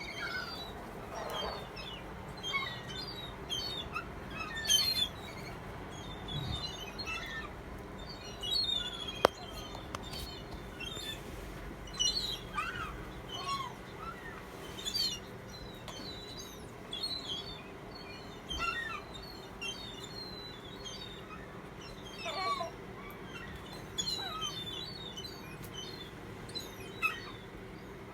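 Many birds chirping and twittering, short overlapping calls coming thick and fast, with one sharp click about nine seconds in.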